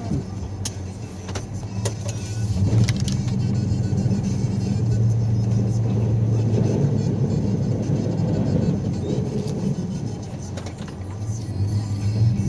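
Snow-plowing vehicle's engine running steadily, louder for several seconds in the middle and easing off briefly near the end, with scattered clicks and knocks.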